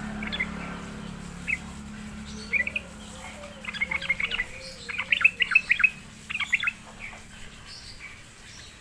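Yellow-vented bulbul (trucukan) chirping in quick runs of short, sharp notes, bunched into three bursts in the middle, with a faint wavering low whistle underneath for a few seconds.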